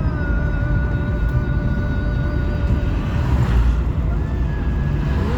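Car driving, with a steady low road-and-wind rumble and a faint held whine above it.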